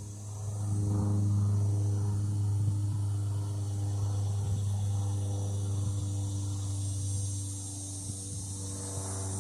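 Steady low engine drone with several overtones, growing louder about a second in and easing off after about seven seconds, like a motor passing at a distance.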